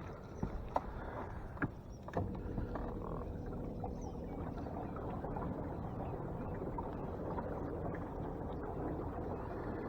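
Small fishing boat on the water: a few light knocks in the first couple of seconds, then a steady low rumble with a faint steady hum.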